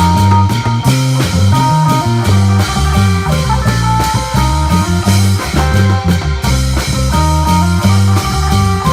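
Instrumental Isan dance music: a phin (Isan plucked lute) playing the melody over electric bass and drums in an upbeat rhythm.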